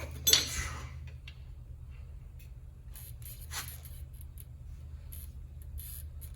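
Metal-on-metal scraping and small clicks of a pry tool working at a hub lock washer, bending its tab over the axle nut: a sharp scrape just after the start, then short scratches and taps, with a steady low hum underneath.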